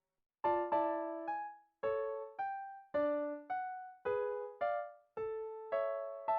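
Solo piano music: slow chords and notes struck about twice a second and left to ring and fade, after a brief gap at the start.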